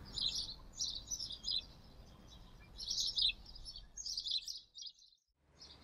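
Small birds chirping in quick clusters of short high notes over a faint low hum. The sound fades almost to silence about five seconds in, then the chirping comes back.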